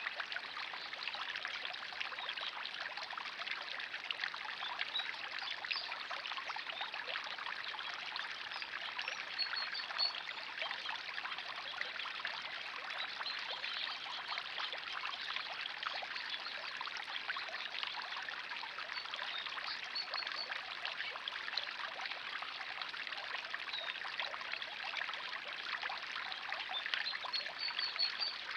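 Steady trickling, splashing water running in a backyard pond, with a few faint high bird chirps now and then.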